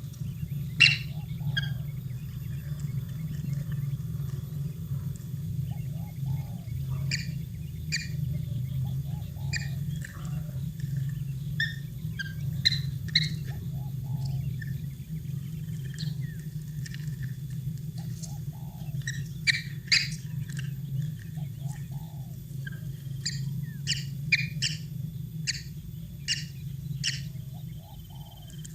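Birds chirping: short, sharp chirps in irregular clusters with softer, lower calls between them, over a steady low hum.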